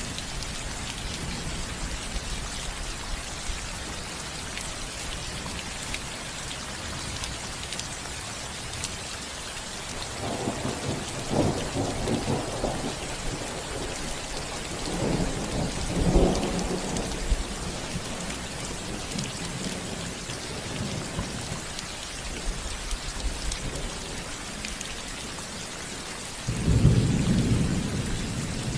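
Steady rain falling on a roof, with thunder rumbling about ten seconds in and again around fifteen seconds, and a louder roll of thunder near the end.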